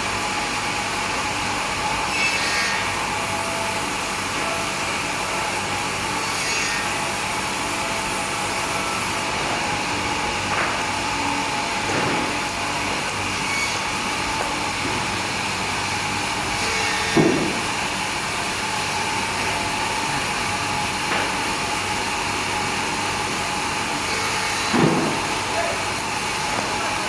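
Sawmill machinery running steadily, with a few brief louder sounds over it, the loudest about two-thirds of the way in and near the end.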